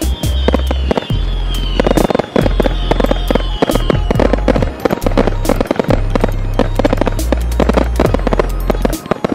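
Display fireworks bursting in rapid, dense bangs and crackles, with a high whistle slowly falling in pitch over the first four seconds. Music with a heavy bass plays along.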